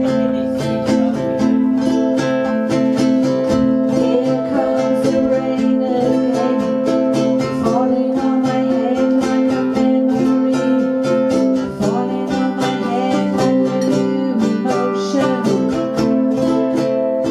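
Live ukuleles strumming chords, with a tune wavering over them and a change of chord about twelve seconds in.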